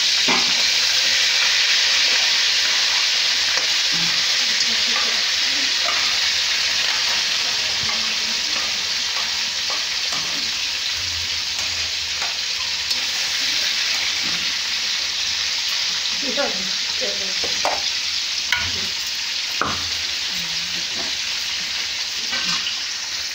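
Crab pieces sizzling hard in hot oil in a kadai, loudest just as they are tipped in and settling into a steady sizzle. A spatula scrapes and knocks against the pan several times as the pieces are stirred, mostly in the latter half.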